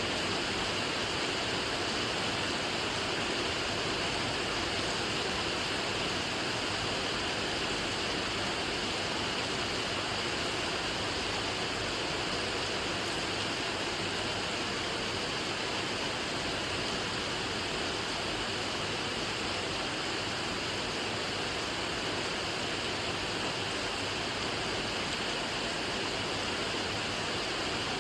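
Steady rain falling: a constant, even hiss with no separate drops standing out and no change in level.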